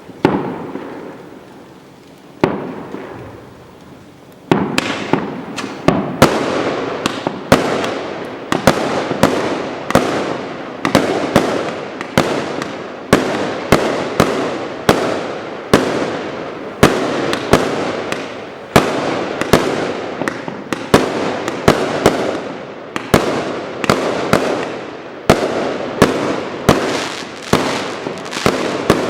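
An 81-shot 25 mm fireworks cake firing. Two single shots come first, then from about four seconds in it fires shot after shot at roughly two a second. Each is a sharp report that trails off.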